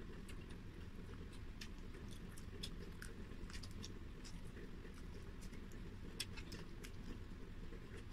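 Faint eating sounds: scattered small wet clicks and smacks of mouths chewing fried chicken wings eaten by hand.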